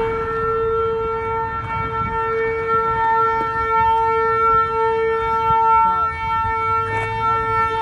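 Vehicle horn of a burning sander truck sounding one continuous, steady loud note, starting suddenly and held without a break.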